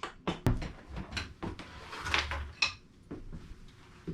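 A series of irregular light knocks, clicks and rustles of objects being handled, with a short low hum about two seconds in.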